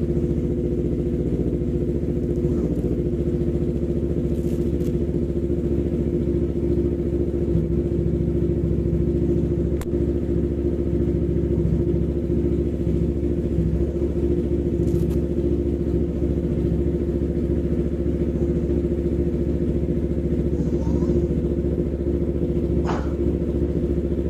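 Yamaha MT-25's 250 cc parallel-twin engine idling steadily, with a single sharp click about ten seconds in.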